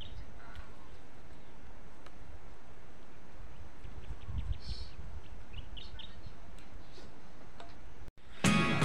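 Birds chirping now and then over a steady low rumble of outdoor ambience. Near the end the sound cuts out briefly and guitar music starts.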